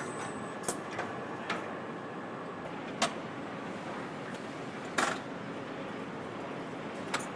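Engine-factory machinery: a steady background hum and hiss, with sharp metallic clicks and knocks every second or two, the loudest about three and five seconds in.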